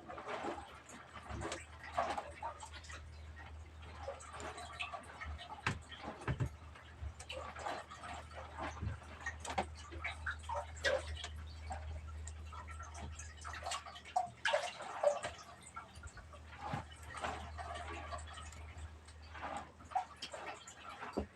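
Small waves lapping and slapping against a fishing boat's hull, with scattered knocks and clicks over a low steady hum.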